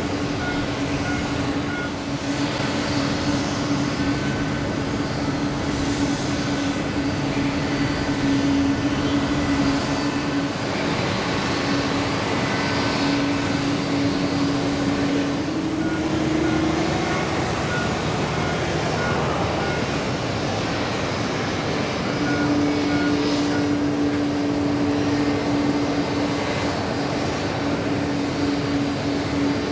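Boeing 777-200's Pratt & Whitney PW4074 turbofan engines running steadily on the ground, a continuous rushing noise under a held tone. The tone shifts briefly about halfway through and fades for a few seconds before it returns.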